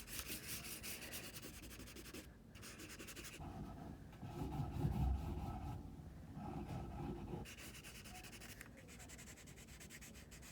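Watercolour crayon scribbling quickly back and forth on drawing paper, a fast run of light scratchy strokes. A duller, louder low noise joins in around the middle.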